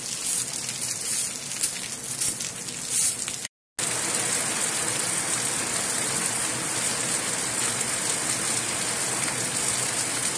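Steady heavy rain falling on floodwater, a dense even hiss of drops. The sound drops out for a moment about three and a half seconds in.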